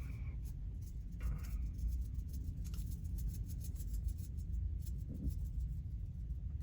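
Faint scratchy clicks and rubbing from handling a takeout meal, over a low steady rumble.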